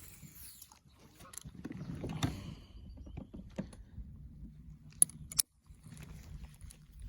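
Handling noises aboard a fishing kayak: a low rustling swell, then two sharp clicks about half a second apart over a steady low hum.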